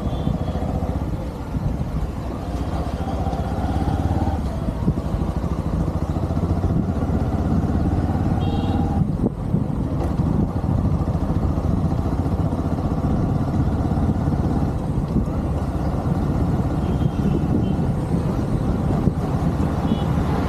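Motorcycle running steadily while being ridden, its engine mixed with road and wind noise.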